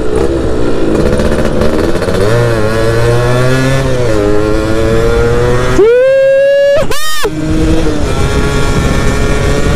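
Yamaha F1ZR two-stroke single-cylinder moped engine under way, its pitch rising and falling with the throttle, climbing to a high steady rev about six seconds in and then dropping back abruptly.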